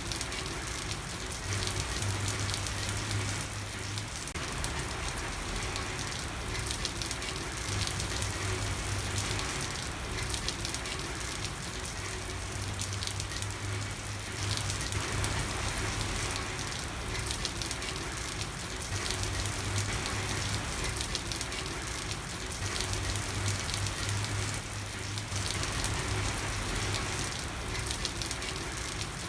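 Steady night rain falling on a street: a dense, even patter of drops. A low hum swells in and out every few seconds.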